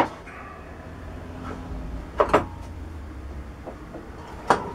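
Lubricant tins and cans being handled and set down on a workbench: a sharp knock at the start, a quick double knock about two seconds in, and another knock near the end.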